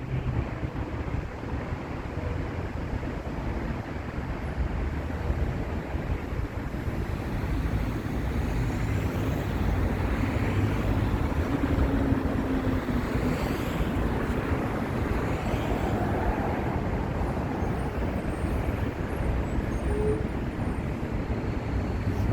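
Steady roadway traffic noise from vehicles passing, with a faint rising and falling sweep midway as one goes by.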